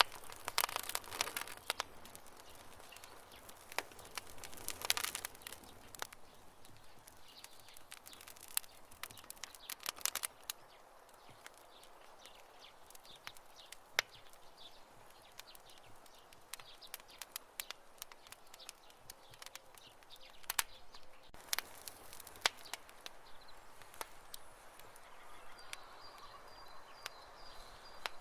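Wood fire crackling and popping, with sharp irregular snaps and short hissing flurries over a soft background. A faint high chirping comes in during the last few seconds.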